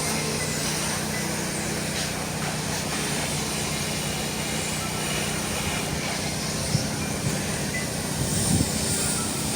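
Steady low hum with an even hiss, a few faint high chirps, and a couple of soft knocks near the end.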